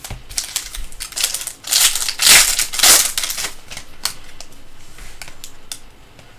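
Foil trading-card pack being torn open and crinkled. The crinkling is loudest from about two to three and a half seconds in, followed by a few light ticks.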